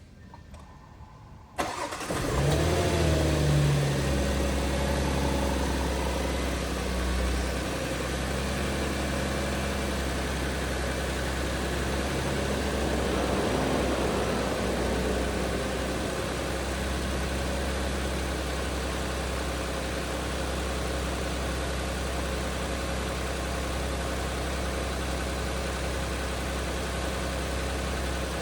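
2017 Audi Q7 3.0T's supercharged V6 cold-started: it fires about two seconds in, flares up in revs for a few seconds, then settles into a steady fast idle.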